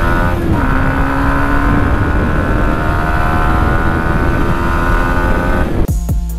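Yamaha MT125's 125 cc single-cylinder four-stroke engine under full throttle, its pitch climbing steadily. About half a second in the pitch drops briefly as it shifts up a gear, then it keeps rising. Near the end it cuts off abruptly into music with drum hits.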